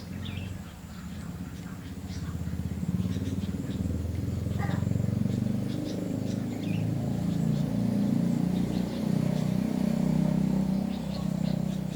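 A motor vehicle engine running close by, growing louder about two seconds in and staying strong, with faint short chirps of small birds over it.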